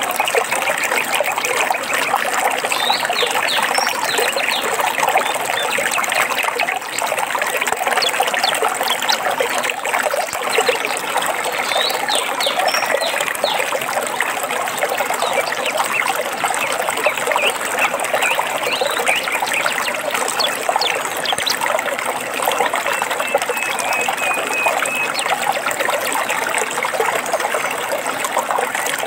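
Running water trickling and splashing steadily. A few faint, short bird chirps sound above it now and then.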